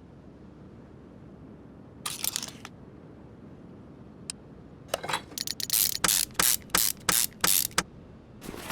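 Ratchet wrench being worked on engine hardware. A couple of short clicks come first, then a regular run of about eight quick ratcheting strokes, roughly three a second, in the second half.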